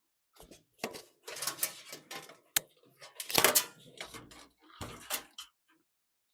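Computer parts being handled and fitted: a run of irregular clicks, knocks and rattles, loudest about halfway through.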